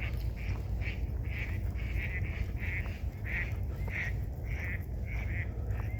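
A bird calling over and over in short, even calls, about two a second, over a steady low rumble.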